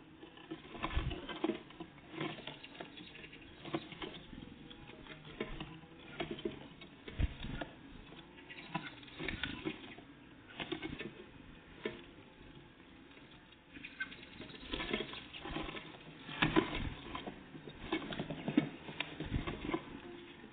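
Small birds (great tits and blue tits) pecking and scratching at food: irregular small taps and knocks, in clusters of several at a time, with no song.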